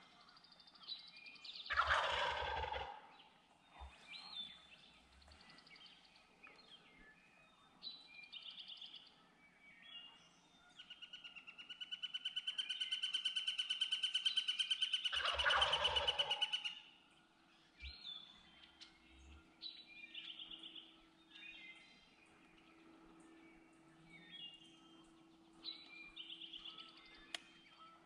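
Wild turkey gobblers gobbling close by: two loud rattling gobbles, about two seconds in and again near the middle. Between them is a long, high, rapidly pulsed call lasting several seconds, and short bird chirps run throughout.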